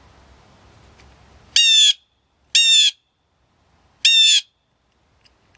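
A bird calling three times: short, harsh, squawking calls about a second apart.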